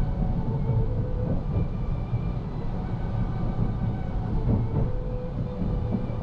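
Twilight Express Mizukaze cruise train running on the rails: a steady low rumble with faint, steady whining tones above it and occasional light knocks.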